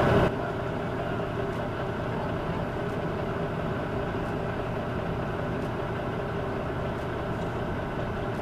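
Semi-truck's diesel engine running with a steady low drone and faint regular ticks about every second and a half.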